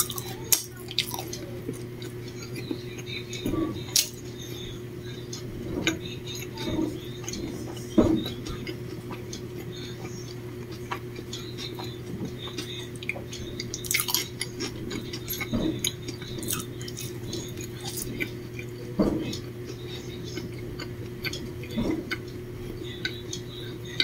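Someone eating a fried egg sandwich: chewing, with scattered small clicks and knocks, the loudest about 8 and 19 seconds in, over a steady low hum.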